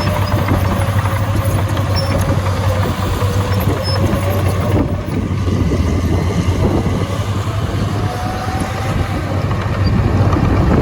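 Heavy diesel earthmoving machinery running steadily, with a thin whine that drifts slowly up and down in pitch over the engine's low hum.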